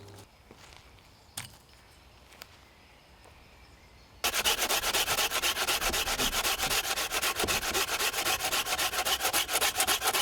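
A hand saw cutting through wood in quick, even, rasping strokes. It starts suddenly about four seconds in, after a quiet stretch with a couple of faint clicks.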